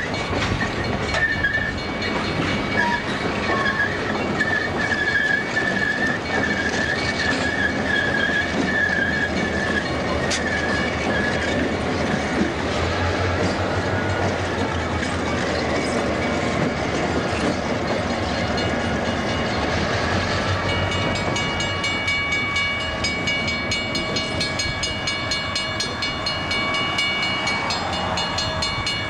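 Passenger train rolling past: steady wheel-and-rail noise with clickety-clack, and a wavering high wheel squeal through the first ten seconds or so. The Algoma Central diesel locomotive's engine rumbles as it passes in the middle. In the last several seconds a ringing tone repeats rapidly.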